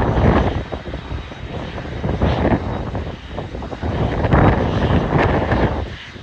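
Aircraft engine noise at an airport, heavily buffeted by wind on the microphone, swelling and dipping unevenly and easing off near the end.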